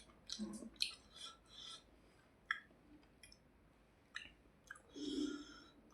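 Close-miked eating sounds: wet mouth smacks and clicks while chewing a mouthful of rice and fish, in a quick cluster at first, then a few single clicks, and a longer breath about five seconds in.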